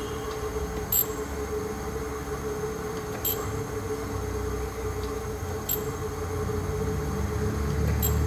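Jones Shipman 540 surface grinder running under power with a steady hum, its hydraulic table traversing with the cross feed engaged. A sharp click comes about every two and a half seconds, in time with the table reversing at the end of each stroke.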